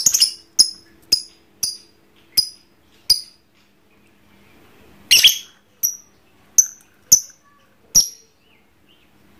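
Lovebird giving sharp, high chirps: a quick run at the start, then single chirps about every half second, a pause of about two seconds, and a few more spaced chirps.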